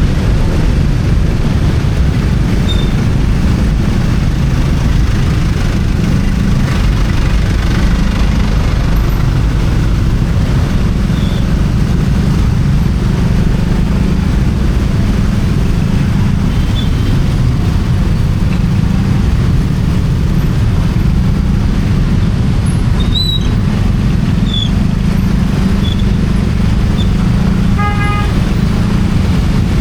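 Steady rush of wind and road noise over a motorcycle's engine, picked up by an action camera on the moving bike. A vehicle horn toots briefly near the end.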